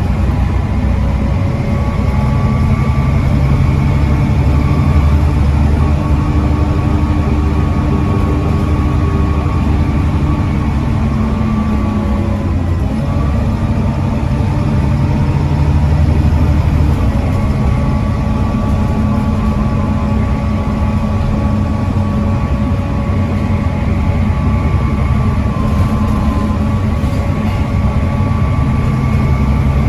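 Volvo B7TL double-decker bus's 7.3-litre Volvo D7C diesel engine running, a steady low drone with engine tones that shift in pitch about twelve seconds in and settle again a few seconds later.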